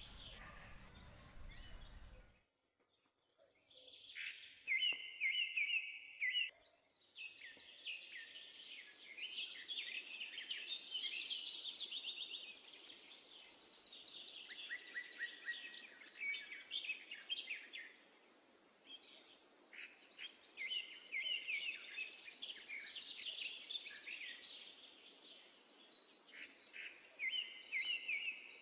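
Birds chirping and singing: many quick high chirps and trills overlapping, with the same phrases coming round again several seconds apart. They start about three seconds in, after a faint hiss cuts off abruptly.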